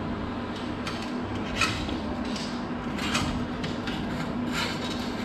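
Steel garage door cable and metal hardware being handled: a few sharp metallic clinks and rubs, about a second and a half apart, over a steady low hum.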